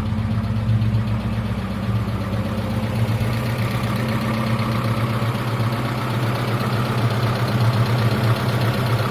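GAZ Volga's ZMZ-24D four-cylinder petrol engine idling steadily while it warms up, just after its valve stem seals were replaced.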